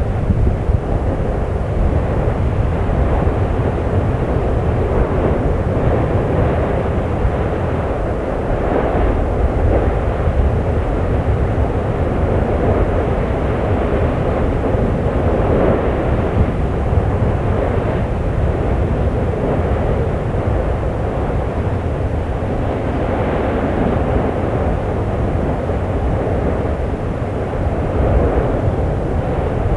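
Erupting vent of the Fagradalsfjall volcano in Iceland giving off a loud, deep, continuous rushing rumble with no distinct tones, swelling and easing every few seconds.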